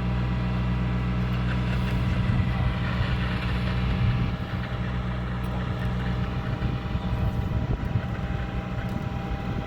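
Heavy diesel engine running steadily. About four seconds in, the steady hum gives way to a rougher, less even sound.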